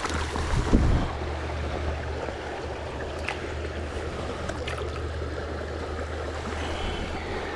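River water rushing steadily over rocks, with a few faint clicks now and then.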